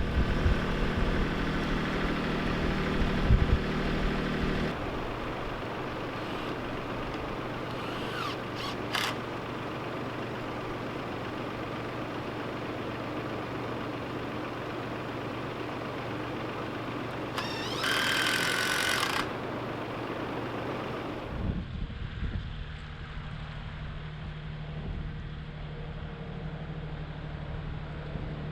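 An engine running steadily with a low hum; the sound shifts about five seconds in and changes abruptly about two-thirds of the way through, with a brief louder stretch just before.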